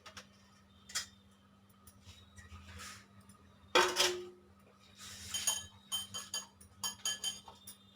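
Boiled raw bananas being mashed in a bowl, a utensil knocking and clinking against the dish: a few single knocks, the loudest about four seconds in, then a quick run of clinks near the end.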